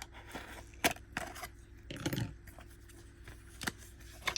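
Nail polish bottles and their packaging being handled: a few sharp light clicks, and a short rustle about two seconds in.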